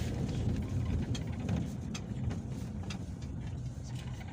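Inside a Peugeot Boxer minibus on the move: steady low engine and road rumble, with light rattles and clicks from the cabin.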